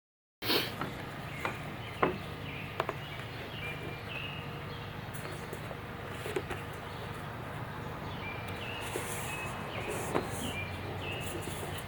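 Outdoor background sound with a low hum, birds chirping in short repeated notes, and a few sharp taps, the loudest about two seconds in.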